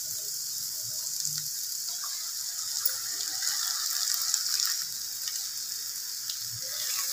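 Shredded potato, onion and capsicum frying in oil in a nonstick pan, with a raw egg on top: a steady high sizzle with light crackles. A spatula starts stirring the mixture near the end.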